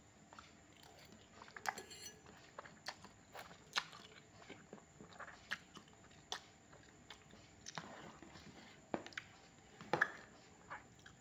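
A person chewing a mouthful of noodles and fried chicken close to the microphone, heard as faint, irregular sharp mouth clicks a second or so apart.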